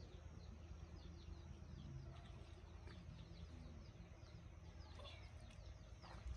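Faint birdsong: many short, quick chirps that fall in pitch, over a steady low rumble.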